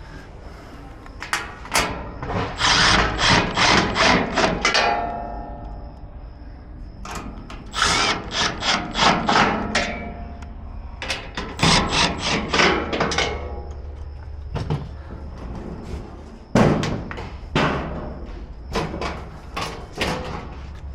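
Fasteners being driven during grill assembly: three runs of rapid, evenly spaced clicking from the tool, each a few seconds long, then a few separate clicks.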